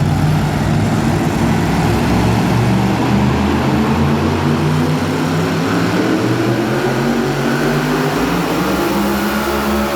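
Super modified two-wheel-drive pulling truck's engine running loud at high revs, a steady drone whose pitch edges upward in the second half.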